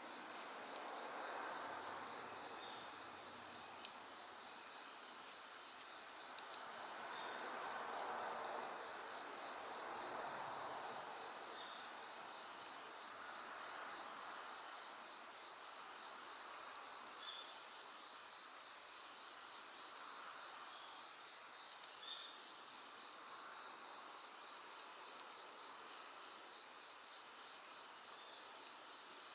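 Night crickets trilling steadily in a high, unbroken chorus, with another insect's chirp repeating about every two seconds. There is one sharp pop about four seconds in.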